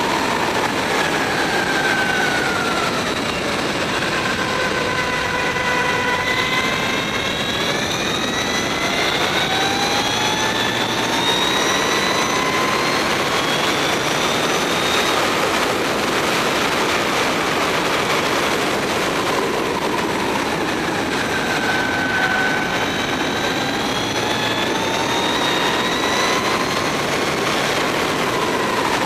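Mavizen TTX02 electric racing motorcycle's motor whining at speed, the whine gliding up and down in pitch several times as the bike speeds up and slows, over a steady rush of wind noise.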